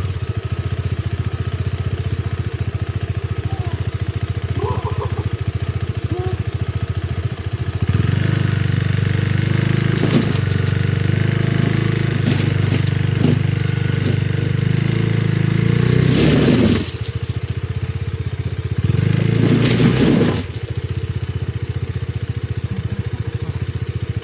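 KTM 390 Adventure's single-cylinder engine running steadily, then revved harder about a third of the way in, with two brief louder surges of rushing noise near the end, as the rear tyre spins and fails to grip on the steep, loose, rocky climb.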